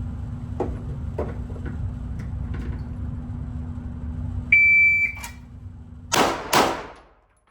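Shot timer's start beep, one steady high tone about half a second long, followed about a second and a half later by two pistol shots about half a second apart, the first-shot and split times of a timed drill.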